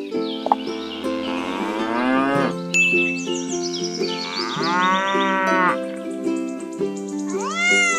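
Cows mooing, three long moos a few seconds apart, over background music.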